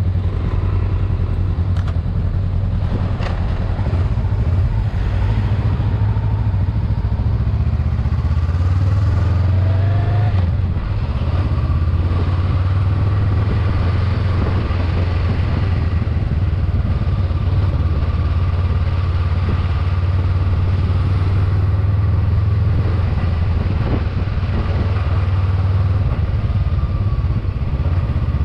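Motorcycle engine running steadily on the move: a continuous low drone under a steady rushing noise, with no big changes in revs.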